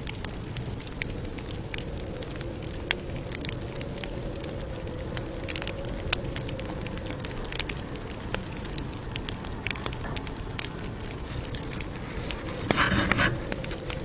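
Campfire crackling: irregular sharp pops and snaps from burning wood over a steady low rush, with a brief louder burst of noise about a second before the end.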